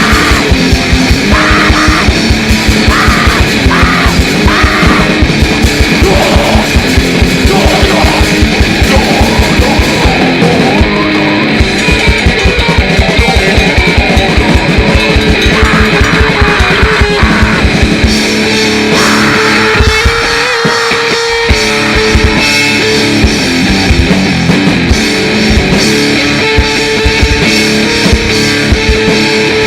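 Grindnoise band playing live: heavily distorted electric guitar over very fast drumming from a drum kit, dense and loud throughout. The drums drop out briefly about two-thirds of the way through, then come back in.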